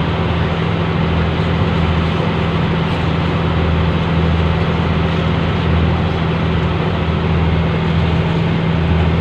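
A fishing boat's engine running steadily at a constant hum, with a low throb that swells and eases every second or so.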